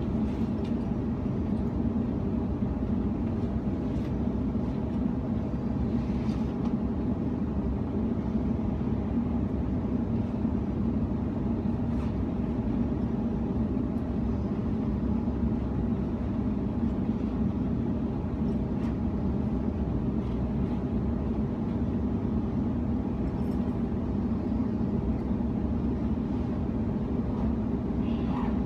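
Steady rumble and hum inside a moving Sydney Trains electric suburban train carriage, with a few faint clicks.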